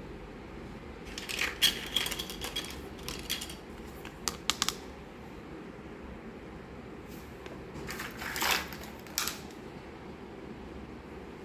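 Miniature toy kitchen pieces being handled, giving two bursts of light clicks and clinks of small hard objects, one starting about a second in and one about two-thirds of the way through, over a steady low hum.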